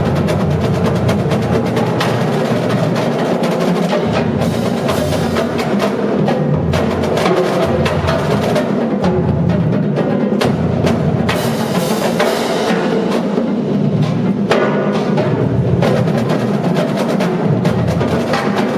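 Marching drumline playing: snare drums rattling out fast rhythmic patterns over low bass drum hits, with sharp rim and stick clicks.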